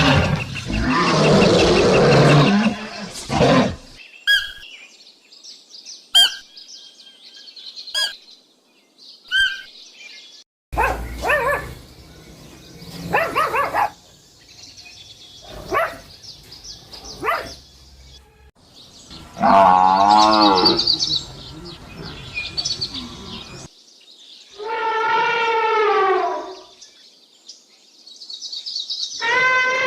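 A run of different animal calls edited one after another: brief high chirps in the first part, then several longer calls with a wavering pitch, and another pitched call starting near the end.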